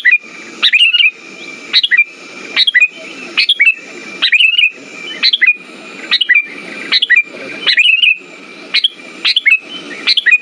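Sooty-headed bulbul (kutilang) calling in short, sharp repeated phrases, about one every 0.8 seconds, from a lure recording meant to set caged bulbuls singing. A faint steady high tone runs underneath.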